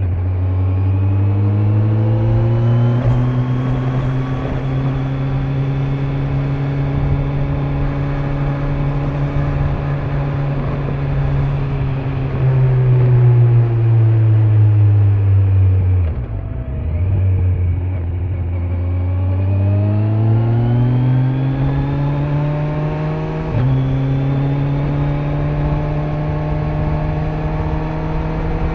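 Kawasaki Z900 inline-four motorcycle engine through its stock exhaust, heard from the rider's back while riding: it revs up, holds a steady speed, drops away around the middle as the rider rolls off, then picks up again, with a sudden step in pitch about two-thirds of the way through. Wind and tyre noise run underneath.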